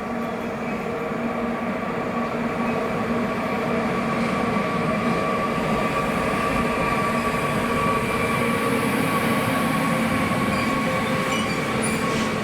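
Train passing on the line, growing louder over the first few seconds and then running steadily, with a steady whine running through the rumble of the wheels.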